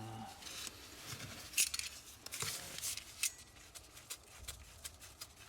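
Hand tools being handled at close range: a few sharp clicks or snips about one and a half, two and a half and three and a quarter seconds in, with lighter ticks between.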